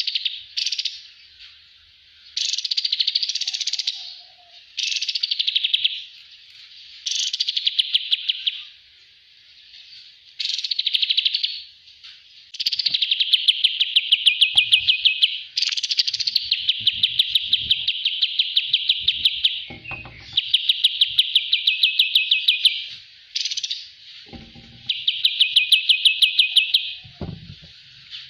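Songbird of the kind Indonesian keepers call kapas tembak, singing a loud, rapid trilling song: phrases of fast repeated buzzy notes lasting one to several seconds, separated by short pauses.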